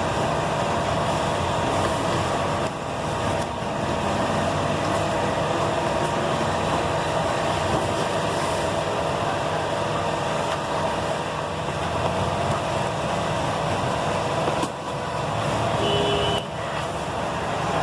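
An engine running steadily with an even hum. Near the end there is a brief short tone.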